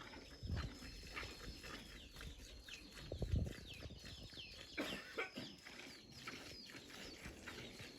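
Chickens calling on a farm, many short high falling chirps and clucks one after another, with a few low thumps, the loudest about three seconds in.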